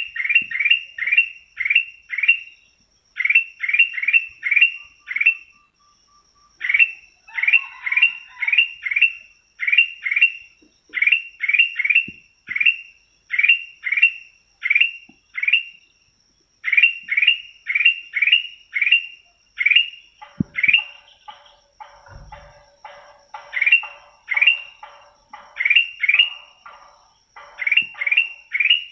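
Kutilang emas songbird calling in quick runs of four to six short, sharp notes, about three a second, with brief pauses between runs. A faint steady high whine runs underneath, and from about two-thirds of the way in a lower rattling chatter joins.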